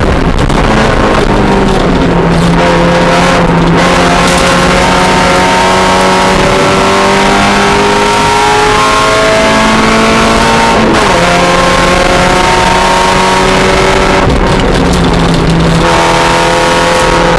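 Mazda Miata race car's four-cylinder engine running hard and loud, its pitch climbing slowly through a long pull, dropping sharply about eleven seconds in, then climbing again.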